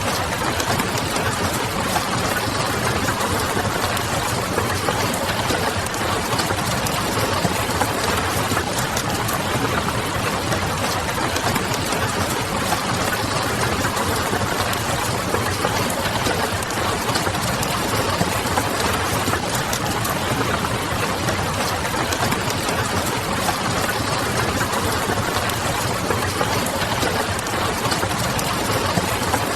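Steady rain ambience with wood-fire crackle: an even hiss of rain with many small, sharp crackles scattered through it, over a faint low hum.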